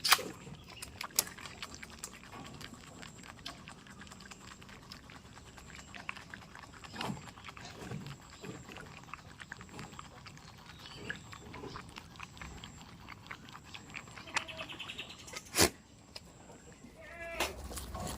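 Goats moving and feeding: scattered rustles, clicks and knocks, with one sharp knock near the end and a couple of brief high chirps.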